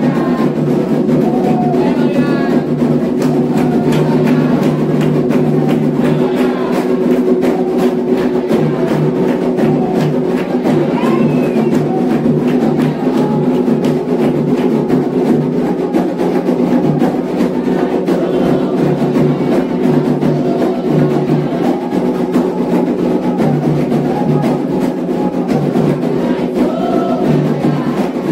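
Candomblé ceremonial drumming on atabaque hand drums with a struck bell keeping time, in a fast steady rhythm, with voices chanting over it.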